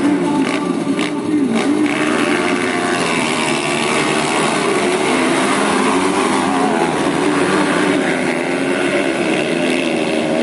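Several racing motocross bikes' engines running hard, their overlapping pitches rising and falling as the riders work the throttles.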